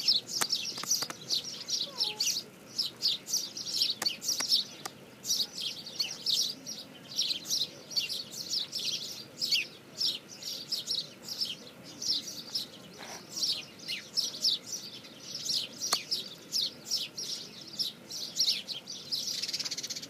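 Birds chirping in a dense chorus of quick, short, high chirps that overlap with hardly a pause.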